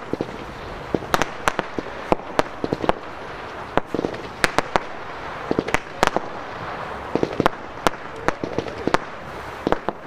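Aerial fireworks going off in a dense, irregular stream of sharp bangs and pops, over a steady hiss.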